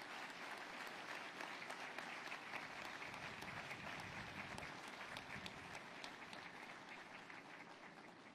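Audience applauding, with dense clapping that slowly dies down toward the end.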